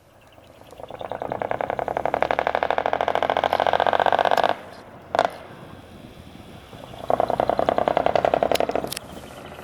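Diesel engine of a dekotora truck with a manifold-split open exhaust, revved hard with a rapid crackling pulse: the note builds for about a second, holds about three seconds and cuts off sharply. A short blip follows, then a second hold of about two seconds near the end.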